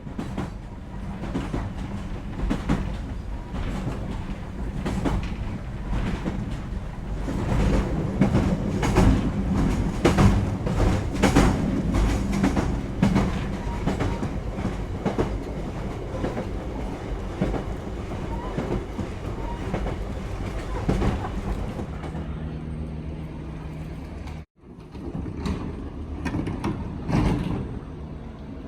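Island Line Class 483 (ex-London Underground 1938 stock) electric train running, its wheels clacking over rail joints over a steady low hum.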